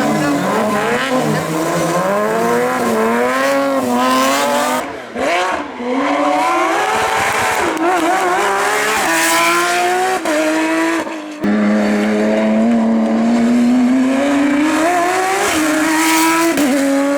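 Competition car engines running hard, the pitch climbing and falling back again and again with gear changes. About 11 seconds in the sound cuts abruptly to another engine pulling steadily higher in pitch.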